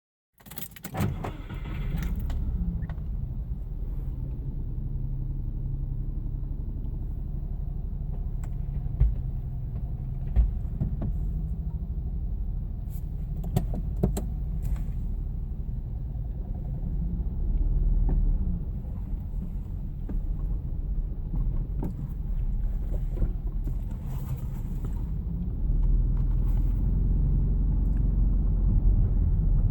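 Subaru Impreza's flat-four engine running warm and misfiring, the owner's complaint being that it has no power. The low, uneven rumble carries a few sharp clicks around a third and halfway in, and gets louder near the end.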